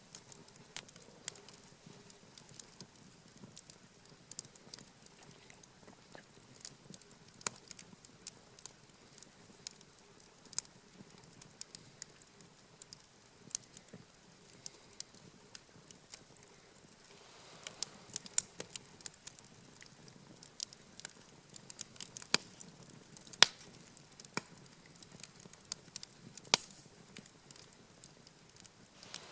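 Wood campfire crackling, with irregular sharp pops and snaps from the burning logs and a brief soft hiss of flame a little past the middle.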